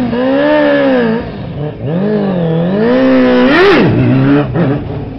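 Suzuki GSX-R 600 sports bike's inline-four engine revving up and down in two long swells, then a quick sharp rev about three and a half seconds in before it drops back and runs lower and quieter.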